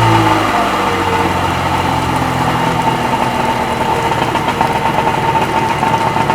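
Freshly rebuilt Sea-Doo XP 720 two-stroke engine running steadily just after starting, with the driveline disconnected and cooling from a flush hose, during its break-in heat cycles. Its note is heavier for the first half second, then settles into an even idle.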